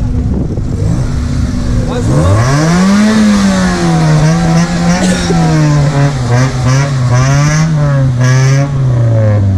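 A car engine revved up sharply about two seconds in, held at high revs with its pitch wavering up and down, then slowly winding back down near the end.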